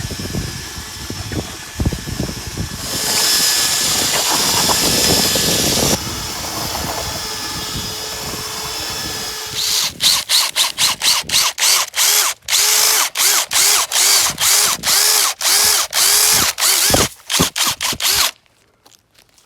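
Power drill running steadily, then switched in rapid short bursts of about two or three a second, each with a quick rise and fall in pitch.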